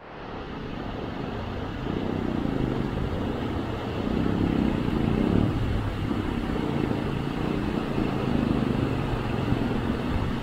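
Motorcycle engine running steadily at low revs over the rush of a fast-flowing mountain stream being crossed.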